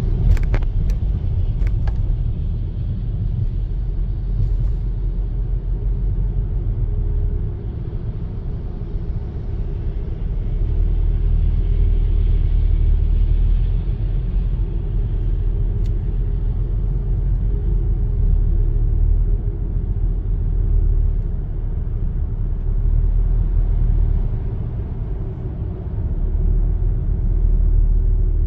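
Car driving along: a steady low rumble of engine and road noise, with a few sharp clicks in the first couple of seconds.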